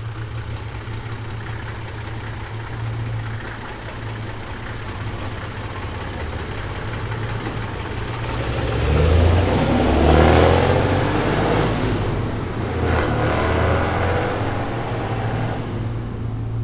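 A car engine running steadily at idle, then a car accelerating off with revs rising and falling, loudest about halfway through and with a second, smaller rise in revs a few seconds later.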